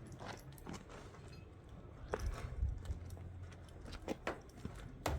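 Scattered light clicks and knocks of handling work, over a low steady hum.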